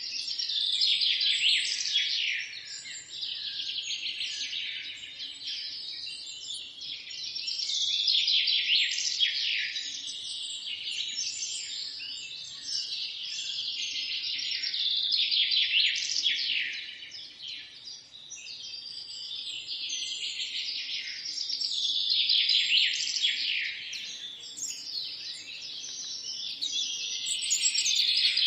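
A dense chorus of many songbirds chirping and singing at once, high-pitched, overlapping calls that swell and fade in waves every several seconds.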